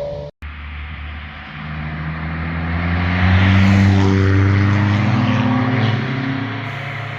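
A car driving past with its engine note building to a peak about halfway through, then fading with a slight drop in pitch as it moves away. A brief gap cuts the sound just before it begins.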